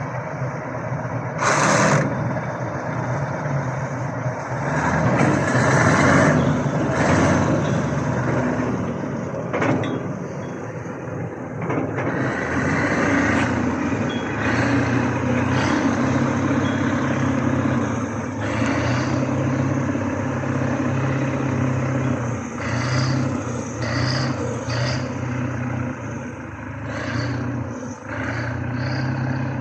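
Kirovets K-700 tractor's diesel engine running with a steady low drone, broken by a few short loud hissing bursts, the sharpest about two seconds in.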